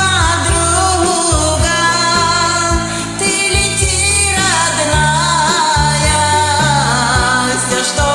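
A woman singing a pop song with vibrato over a karaoke backing track with a bass line.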